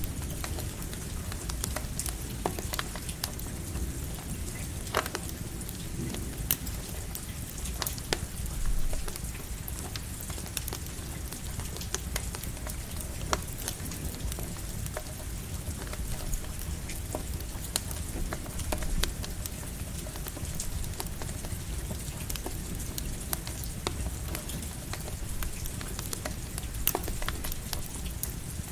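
Campfire crackling, with scattered sharp pops, over steady light rain and a low rumbling background.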